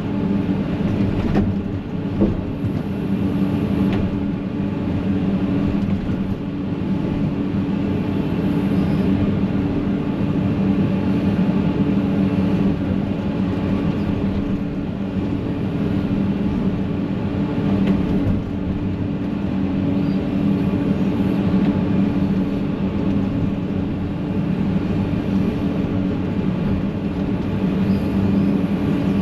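Excavator's diesel engine running steadily under load while digging out a tree stump and its roots, with a few short knocks in the first few seconds.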